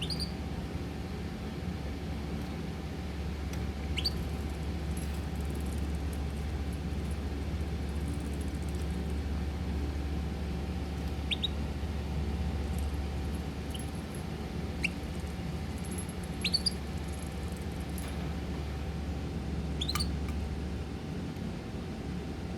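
Small pet birds giving occasional short, high chirps, about six scattered through the stretch, over a steady low hum.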